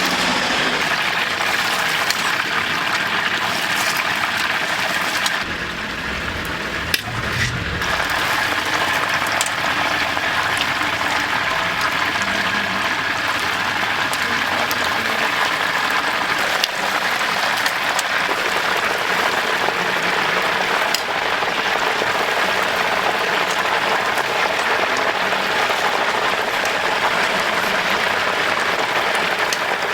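Chicken deep-frying in hot oil: a steady sizzle and crackle, with a brief dip and a sharp tick about seven seconds in.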